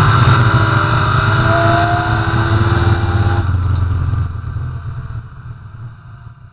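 Twin-turbo Mustang drag car's engine at full throttle, fading away steadily as it runs off down the strip, with a faint rising whine in the first half; the sound drops off more sharply a little past halfway.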